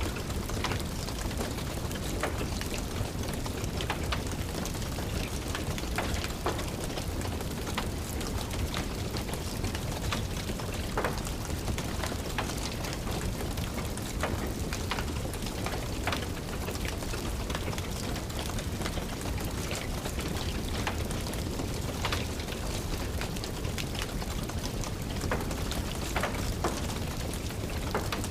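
Steady rain with the irregular, sharp crackles and pops of a wood fire burning in a fireplace.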